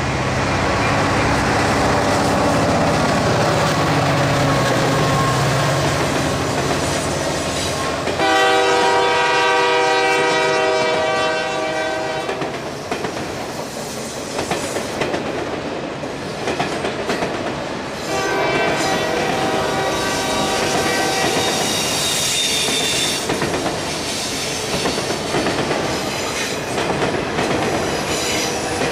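Union Pacific freight train passing: diesel locomotive rumble at first, then a long multi-chime air horn blast about a third of the way in and a shorter one past the middle. Between and after the blasts, the autorack cars' wheels clatter over the rails.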